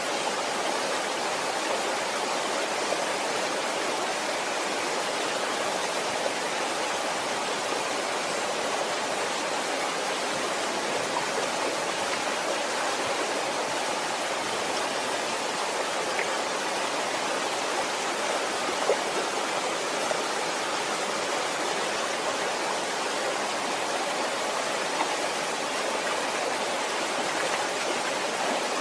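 Waterfall: a steady, even rush of falling water, with an occasional faint splash.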